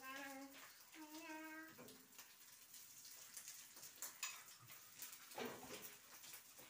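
Burger patty sizzling faintly in a frying pan on a gas burner, with a few light clicks of a metal spoon against the pan.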